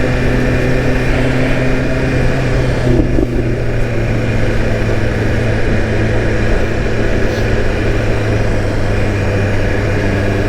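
BMW S1000RR's inline-four engine running at a steady pace while being ridden through traffic.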